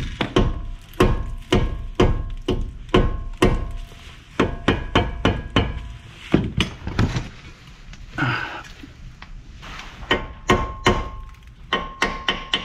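Repeated hammer blows, about two to three a second with a short lull partway through, on a nut threaded onto the outer tie rod end's ball stud, with a faint metallic ring after the strikes. The blows are trying to drive the rusted stud out of the steering knuckle, and it does not budge.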